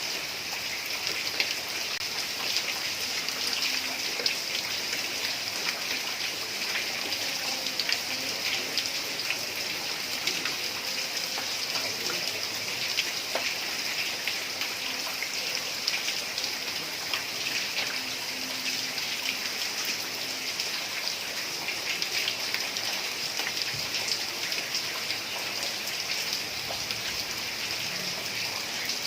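Heavy rain falling steadily on a tiled roof: a dense, even patter of drops with no thunder.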